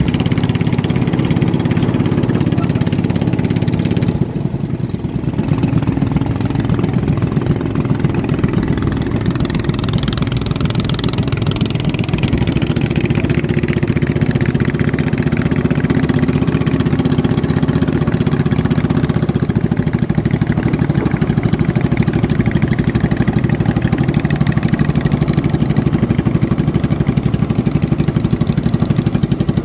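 Racing boat engines running hard and steady, their pitch shifting slightly as they hold speed, with a brief drop in level about four seconds in.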